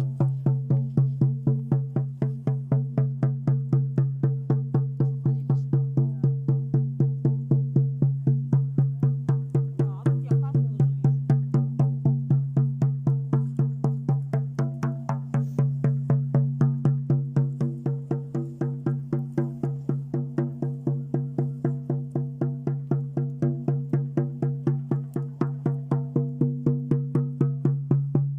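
Steady fast drumbeat, about four beats a second, over a continuous low droning tone: shamanic-style drum music.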